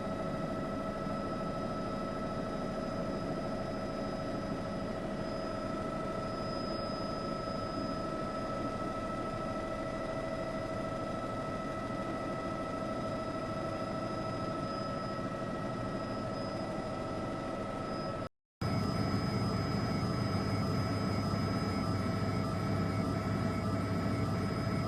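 Steady helicopter cabin drone with several constant high-pitched whine tones running over it, broken by a short dropout about three quarters of the way through.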